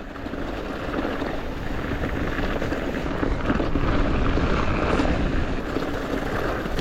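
Steady rushing of wind over the microphone, with a low rumble of mountain bike tyres rolling over dirt trail at speed.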